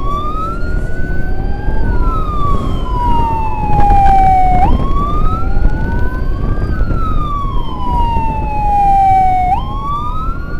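Two electronic wailing sirens from an ambulance escort, sounding out of step with each other. Each rises for about two seconds, falls slowly for about three, then jumps back up. Underneath is a steady rumble of engine, road and wind noise.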